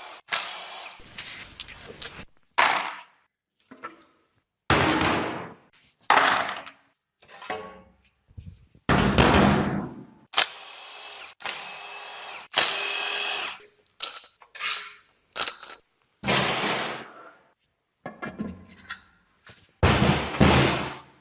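Power-tool and workshop noises in a rapid string of short bursts, each starting and stopping abruptly. Some carry a steady motor whine.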